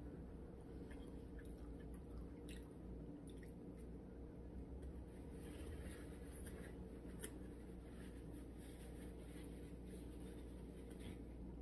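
Faint chewing of a sub sandwich, with scattered soft mouth clicks and one sharper click about seven seconds in.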